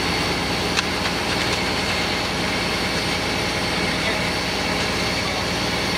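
Heavy diesel engine of a concrete pump truck running steadily, with a thin, high, steady whine over it.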